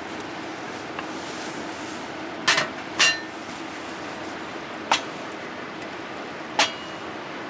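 A handful of sharp clinks and knocks, hard objects such as cookware or cups being set down or tapped, a few of them ringing briefly, over a steady hiss of rain.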